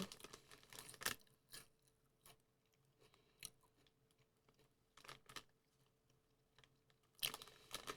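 Chips being chewed, heard as a few faint, scattered crunches about a second apart, with a faint steady hum beneath.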